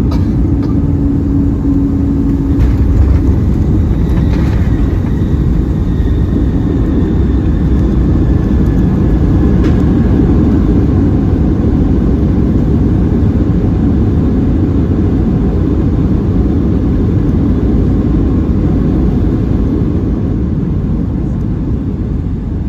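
Loud, steady cabin roar of a Boeing 757-300 landing, heard from inside the cabin. A few brief knocks and a faint falling whine sound in the first half, and the roar eases slightly near the end.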